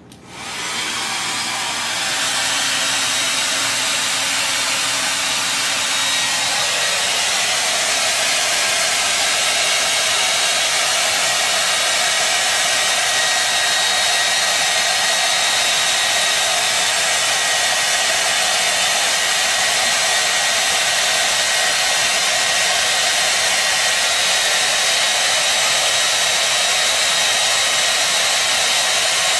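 Hair dryer switched on, coming up to speed over the first couple of seconds, then running steadily: a rushing blow of air with a faint high whine.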